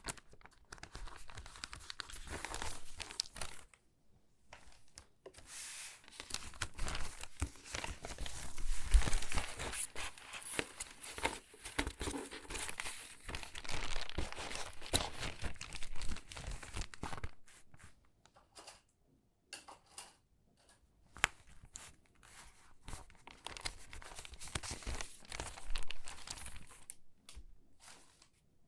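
Stiff, crinkly water-damaged magazine pages being handled and sorted by hand: irregular crinkling and rustling of paper, with a few short pauses.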